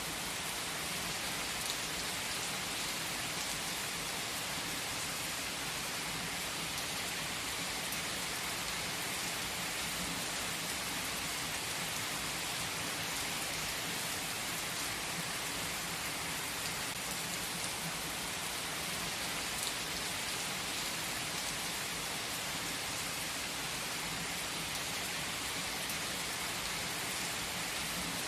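Steady rain falling: an even hiss with fine scattered drop ticks, unchanging throughout.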